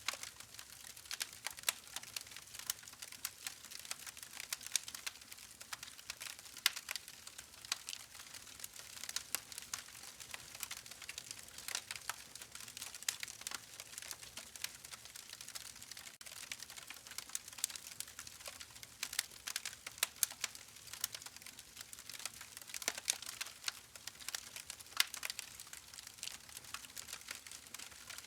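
Campfire crackling: a steady stream of irregular sharp pops and snaps from burning wood over a faint hiss, now and then a louder pop.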